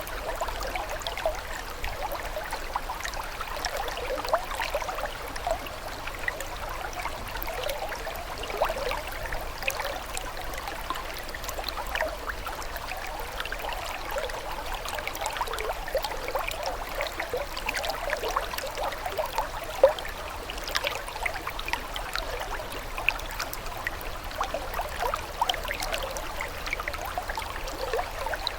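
Running water trickling and gurgling steadily, with a constant stream of small bubbling splashes and no pauses.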